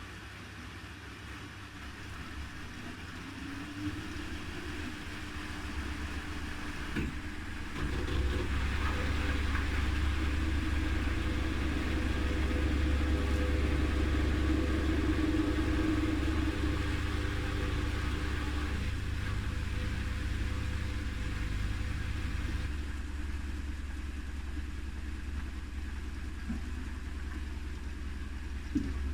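Haier I-Pro Series 7 (HW80-B14979) washing machine drum spinning up: a motor whine rises in pitch over the first few seconds and then holds steady over a low hum. The sound grows louder towards the middle, eases off, and cuts out near the end.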